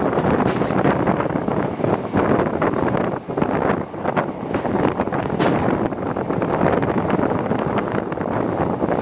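Wind rushing over the microphone from the window of a moving passenger train carriage, mixed with the carriage's running noise on the track. The level wavers unsteadily, with short irregular knocks throughout.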